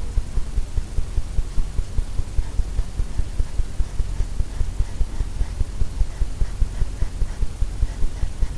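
Paintbrush dabbing and scrubbing oil paint onto a stretched canvas, a steady run of low thumps about four a second.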